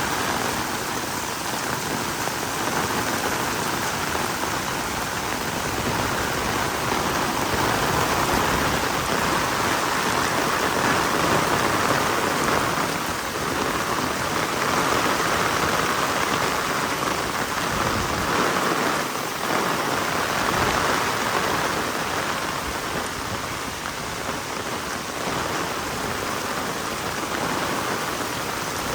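Heavy rain falling steadily: a dense, even hiss that swells and eases slightly.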